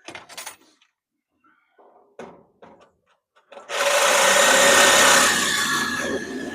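A few short knocks, then a handheld power tool runs steadily for about three seconds, starting about halfway through. It is working through a part of a clothes dryer being taken apart for scrap.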